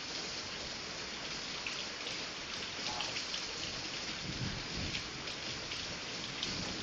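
Steady rain falling during a thunderstorm, with scattered drip ticks, and a low rumble of thunder a little past the middle.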